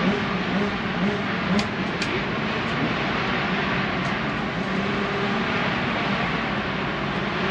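KTM four-stroke motocross bike's engine running on its stand, idling steadily with small rises and dips in revs.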